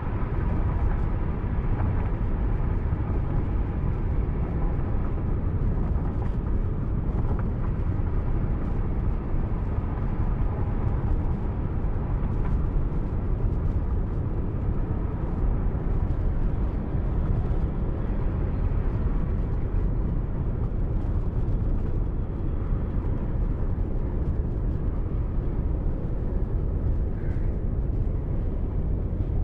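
Steady low rumble of a car driving along a highway: road and engine noise heard from inside the car, with no change through the stretch.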